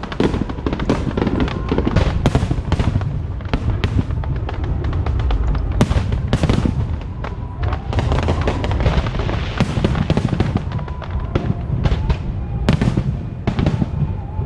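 Aerial fireworks going off in a rapid, dense barrage of bangs and crackles over a continuous low rumble. Music plays underneath.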